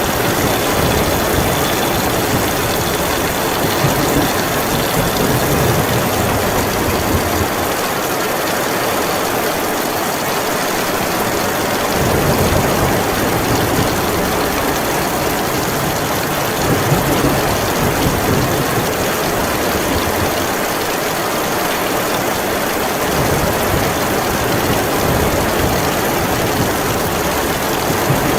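Heavy rain falling steadily, with a low rumble underneath that swells and fades every few seconds.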